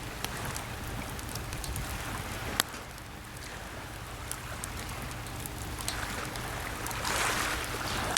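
Wood campfire crackling with many small sharp pops, one louder pop about two and a half seconds in, over the steady wash of small sea waves; a wave swells up near the end.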